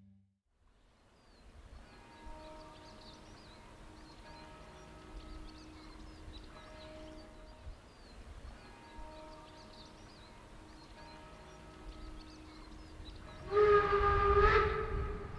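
Steam locomotive 99 1741-0's whistle sounding loudly in one long blast about two seconds before the end, over a low rumble from the train. Before it, faint pitched tones come and go with small bird chirps above them.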